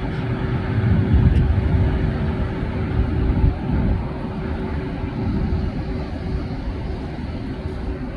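Steady low engine rumble with a constant hum, slightly louder in the first half.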